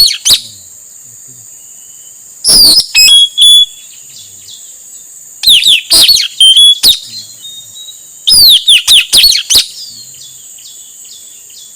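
Male puling (nuri tanau, the blue-rumped parrot) calling: three loud bouts of rapid, shrill, downward-sliding chirps, each about a second and a half long, spaced about three seconds apart.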